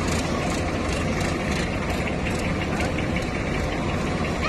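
A heavy diesel engine running steadily at an even pitch.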